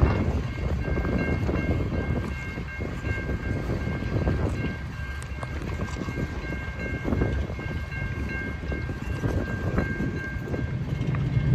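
A train rumbling past, with a few faint, steady high tones held over it for most of the time, briefly breaking off now and then.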